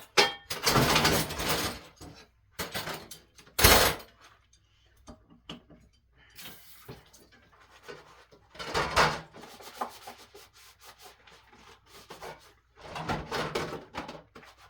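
Dishes being scrubbed by hand: irregular rubbing strokes, each lasting a second or so with pauses between, the sharpest a short scrape about four seconds in.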